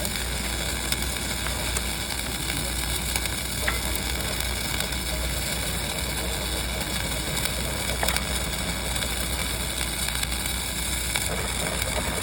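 Dual-shield flux-cored arc welding: the arc crackles and sizzles steadily and without a break as the wire feeds into the weld.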